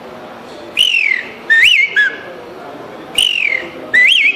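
A man whistling an imitation of the curiango (common pauraque, a nightjar) call. Two phrases come about two and a half seconds apart, each a falling whistle followed by a rising-and-falling one.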